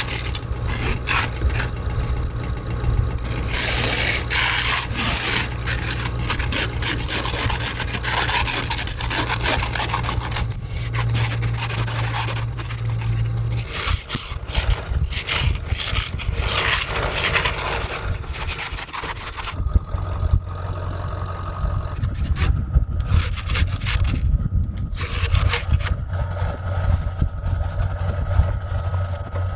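Ice scraper scraping ice off a truck windshield in repeated strokes, over the steady idle of a Ford 7.3 Powerstroke V8 diesel warming up.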